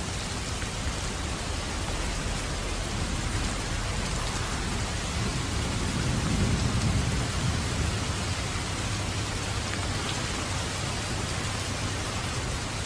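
Steady rain falling, an even hiss, with a low rumble of distant thunder swelling up about halfway through and fading again.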